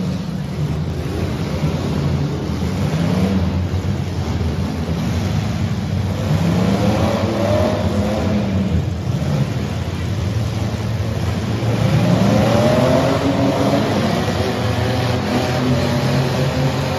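Several compact demolition-derby car engines revving and running hard, their pitch rising and falling as the cars accelerate and back off, most plainly about six seconds in and again about twelve seconds in.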